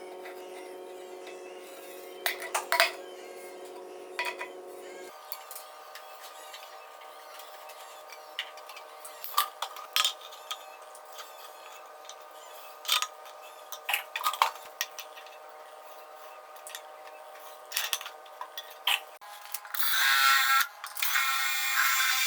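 Hand tools clicking and scraping now and then while a chicken feeder is being made, over a steady hum, with a louder rasping stretch of a few seconds near the end.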